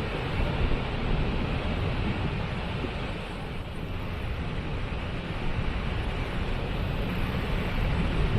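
Waterfall rushing: a steady wash of falling water with a strong low rumble, and wind buffeting the microphone.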